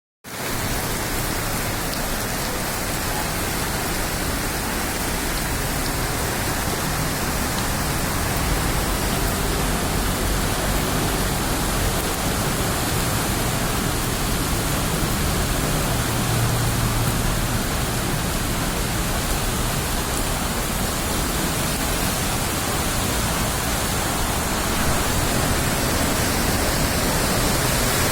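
Heavy downpour with rushing storm runoff water, a steady dense hiss.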